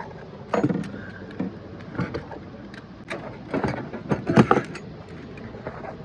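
Irregular knocks and clicks, several in a cluster near the middle, over a steady low hum.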